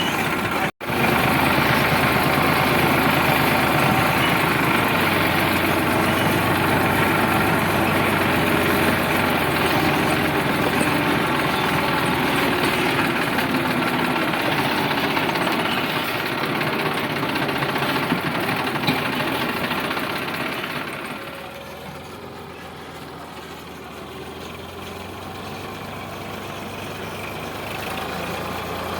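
Sonalika DI 745 tractor's three-cylinder diesel engine running steadily under load. It drops in level noticeably about 21 seconds in, then slowly builds again. There is a brief cut-out just under a second in.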